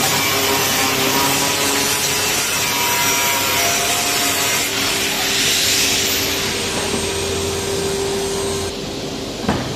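A power tool working metal with a steady, dense rasping hiss. It eases off near the end, with one sharp knock just before the end.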